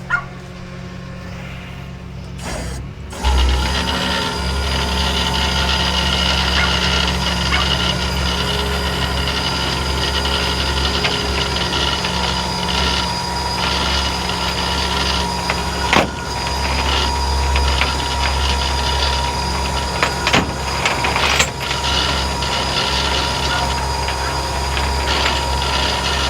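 Rollback tow truck's engine running steadily with a mechanical whine, which starts with a jump about three seconds in while the car is being handled off the bed. A few sharp metallic clanks come about two-thirds of the way through.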